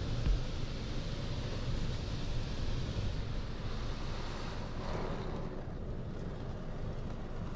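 Touchless car wash spray jets rushing steadily against the car, heard from inside the cabin, easing off about five seconds in as the cycle winds down.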